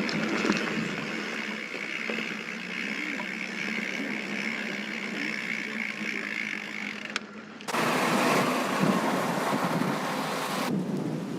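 Mountain bike riding along a dirt trail: tyre and drivetrain noise with a steady whirring hum, then about three seconds of loud wind noise on the microphone near the end.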